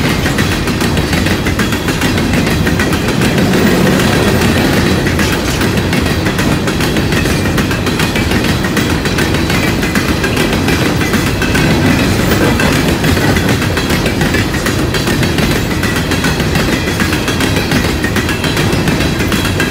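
Loaded CSX coal train's hopper cars rolling past, a steady loud rumble of steel wheels on rail with fast clicking as the wheels cross the rail joints.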